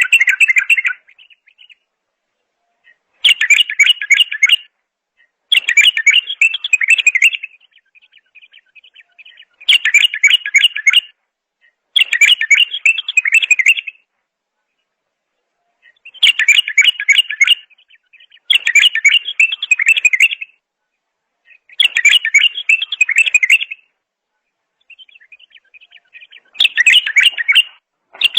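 A songbird sings in repeated warbling phrases, each about one and a half to two seconds long, with short pauses and some softer twittering between them. The song is fairly high and rich, about nine phrases in all.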